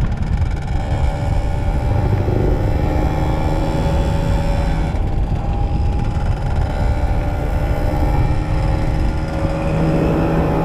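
Two-stroke motorcycle engine running on the move at fairly steady revs, a dense rumble with the ring-ding of a two-stroke exhaust.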